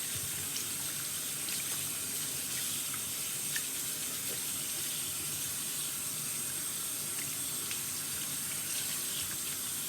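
Tap water running steadily into a sink as conditioner is rinsed out of a doll's hair.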